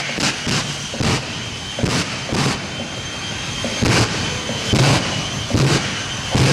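The Shockwave jet truck's three J34 turbojet engines running against the brakes with afterburners lit, raw jet fuel burning in the exhaust: a steady jet rush with a high whine, broken by loud afterburner pops about once a second at uneven spacing.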